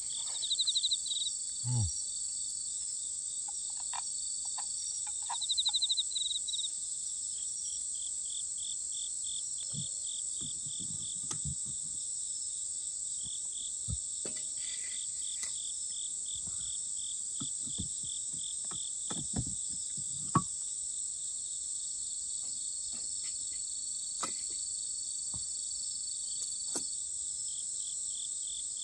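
Night chorus of crickets: a steady high-pitched ringing with an evenly pulsed trill beneath it, swelling into two louder trills in the first few seconds. Scattered faint clicks and knocks run through it.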